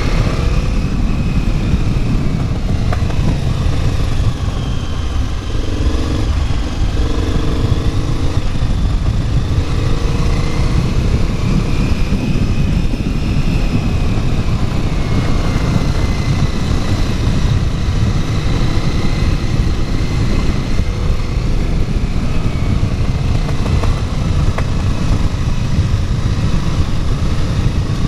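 KTM 950 Adventure's LC8 V-twin engine running at low, uneven revs while the motorcycle is ridden slowly, the note rising and falling gently with the throttle.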